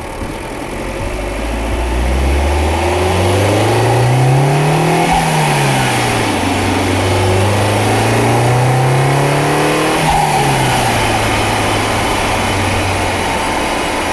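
Alfa Romeo Giulietta 1.4 MultiAir 170 hp engine accelerating: the engine note rises, drops about five seconds in, rises again and drops about ten seconds in, then holds steady. The car has a whining noise under acceleration above 3000 rpm that stops around 1000 rpm.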